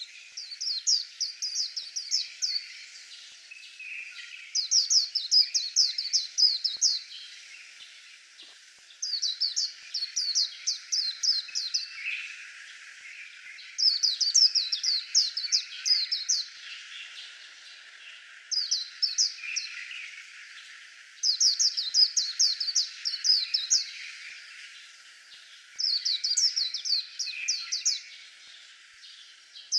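White-eye singing: phrases of quick, high, downward-sweeping notes, each about two seconds long, repeated every four to five seconds, with fainter chirps between them.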